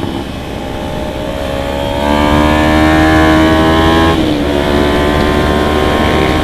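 Motorcycle engine riding along: the pitch climbs for about two seconds as it accelerates, drops suddenly about four seconds in with an upshift, then holds steady.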